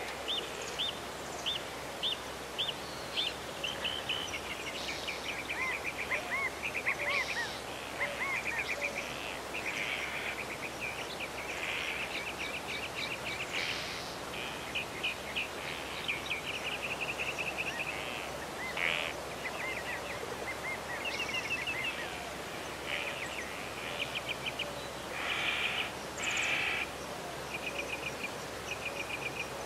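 Songbirds singing: many short chirps and rapid trills from several birds, over a steady background hiss.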